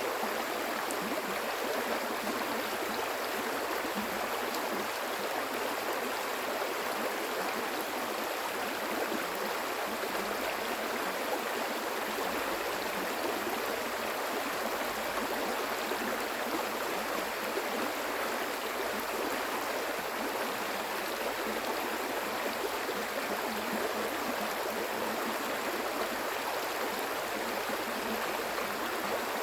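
Stream water flowing over rocks in a steady, unbroken rush with a lively splashing texture.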